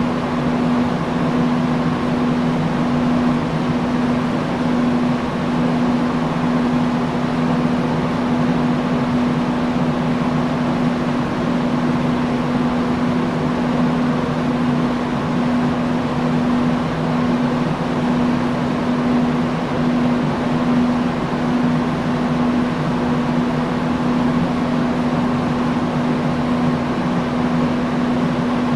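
Industrial fan running steadily: an even rush of air with a constant low motor hum.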